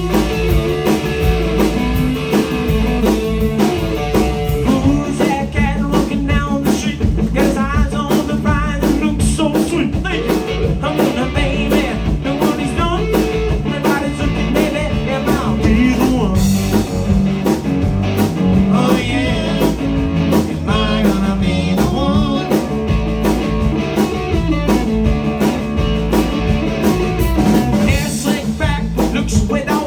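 Live blues and rock & roll band playing: electric guitar over bass and drums.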